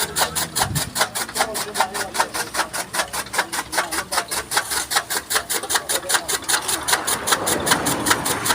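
Fodder chaff cutter chopping maize stalks: a fast, even chopping rhythm of about six strokes a second.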